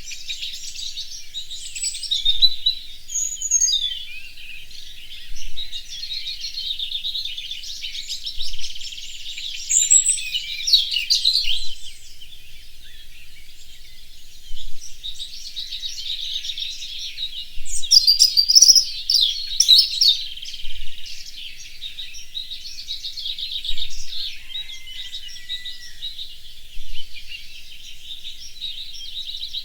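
A chorus of many birds singing and chirping at once, a dense, continuous mix of high calls and trills, with a louder spell of rapid chirps a little past the middle.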